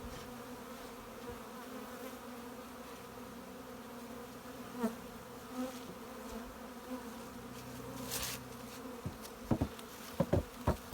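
Honey bees buzzing steadily in a swarm around a freshly installed hive, with a few sharp knocks near the end.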